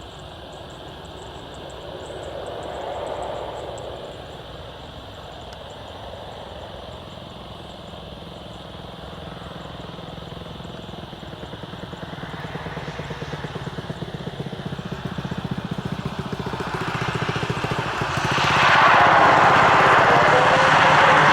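Engines of a landing USAF aircraft approaching, growing steadily louder with a rushing roar and jumping sharply in loudness near the end as it comes close.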